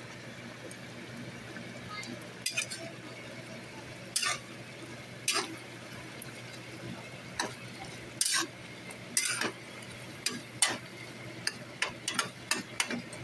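A cooking utensil stirring food in a pan: a dozen or so short scrapes against the pan at irregular intervals, over a steady low hum.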